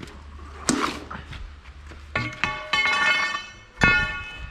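Steel tools and axle parts striking each other: several metallic clanks, each ringing with a bright tone, the loudest one near the end, as a stuck locking nut and hub are worked off a lorry's rear axle.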